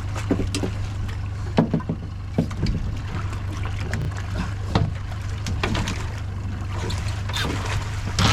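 Boat engine running with a steady low hum, with irregular knocks and bumps on board as a large queenfish is brought in.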